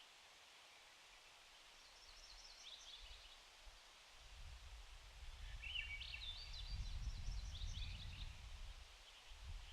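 Small birds calling in quick chirping phrases, twice, the second run longer. A low, uneven rumble comes and goes beneath them, building from about three seconds in.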